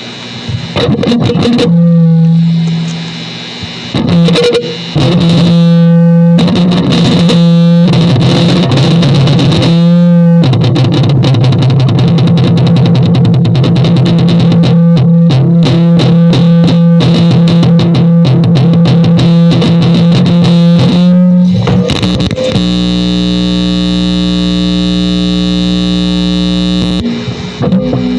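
Experimental noise music: a loud, distorted, effects-processed guitar drone held on a low note, chopped into stuttering patterns. About 22 seconds in it changes to a steady, dense held chord of tones that cuts off about a second before the end.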